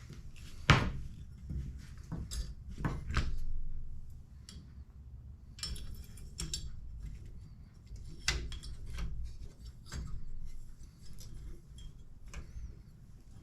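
Irregular clicks, taps and knocks of small hard objects being handled on a work surface, with a sharp knock a little under a second in as the loudest sound.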